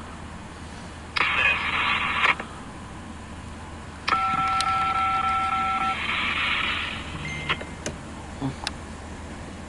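Railroad radio scanner receiving transmissions: a short burst of radio hiss about a second in, then a longer one carrying a steady two-tone touch-tone signal for about two seconds, over a low steady hum.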